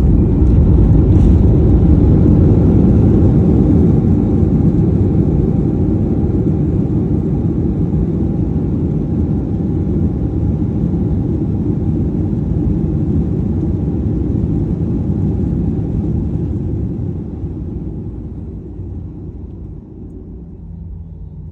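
Cabin rumble of a Boeing 737-800 slowing on the runway after landing: a loud, steady low roar of engines and wheels. It is heaviest at first, eases as the jet decelerates, and drops away over the last few seconds to a quieter taxi-speed hum.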